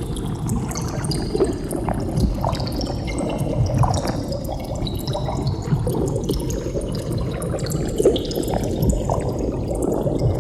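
Underwater bubbling: a continuous stream of bubbles gurgling over a low water rumble, with many short bubble blips and pops scattered through it.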